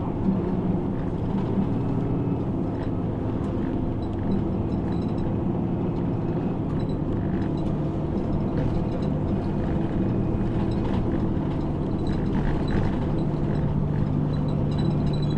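A route bus's engine running with road noise, heard from inside the passenger cabin: a steady low drone whose note holds level through the last few seconds.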